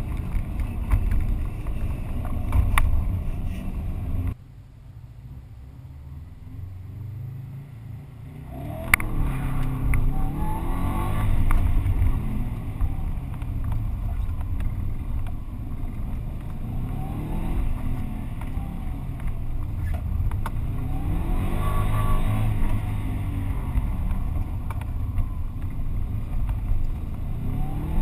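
Subaru Impreza GT's turbocharged flat-four engine, heard from inside the car, accelerating through the gears, its pitch repeatedly rising and dropping at each shift, over wind and wet-tarmac tyre noise. About four seconds in the sound drops suddenly to a quieter rumble. About nine seconds in it comes back loud with a sharp click and climbs through the gears again.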